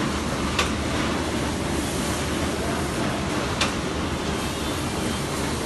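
Steady rushing machine noise with a low rumble, cut by a sharp click that repeats evenly about every three seconds.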